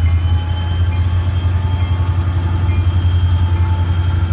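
Diesel locomotive working close by, its engine a deep, steady pulsing rumble, with faint high steady tones over it.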